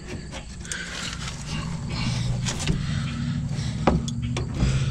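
A motor vehicle's engine hum, growing louder, with a few sharp metallic clicks and knocks of a wrench on the brake caliper bolt.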